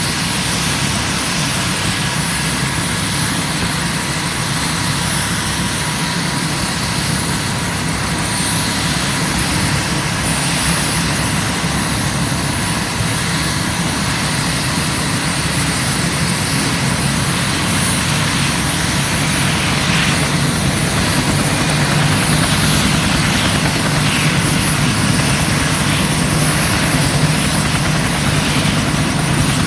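UH-1 helicopter's single turboshaft engine and rotor running, a steady high whine over a low rotor drone that grows slightly louder toward the end.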